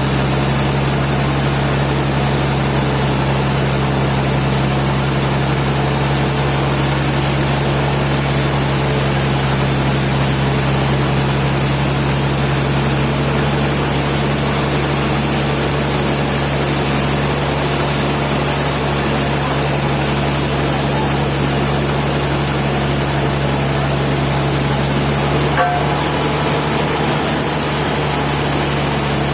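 Sawmill machinery running steadily with a constant engine hum, and a single short click near the end.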